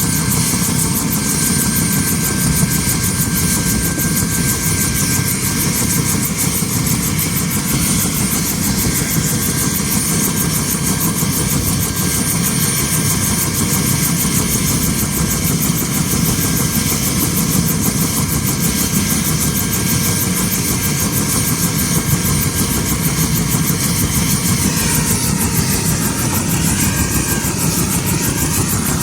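Helicopter running steadily, with a constant high whine over the dense engine and rotor noise. Near the end, a wavering tone rises and falls.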